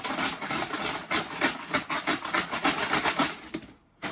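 Numbered wooden pop sticks rattling as they are shaken together in a container, a fast run of clattering clicks that stops about three and a half seconds in.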